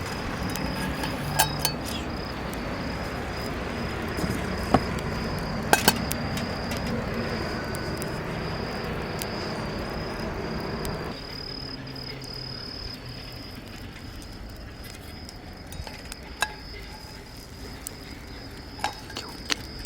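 An insect's steady high trill runs throughout. Several sharp clinks of camp cookware or utensils are heard, a few in the first six seconds and a couple more near the end.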